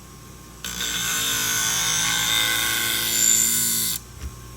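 Fiskars sewing-scissor blade ground against a spinning 240-grit diamond wheel on a Twice As Sharp sharpener. A grinding hiss starts suddenly under a second in and stops about three seconds later, over the faint steady hum of the machine.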